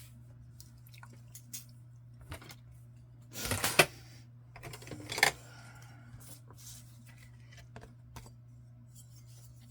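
Small metal craft pieces clinking and paper being handled on a work table: scattered light clicks, with a louder rustle and clatter about three and a half seconds in and a sharp clack about five seconds in, over a faint steady hum.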